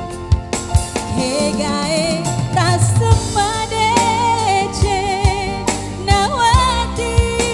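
Live band music: a singer holds long notes with a wavering vibrato over a bass line and a steady drum beat.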